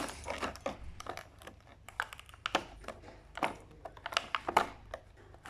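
Small plastic toy pieces and their packaging being handled, giving irregular light clicks and taps with a few sharper knocks.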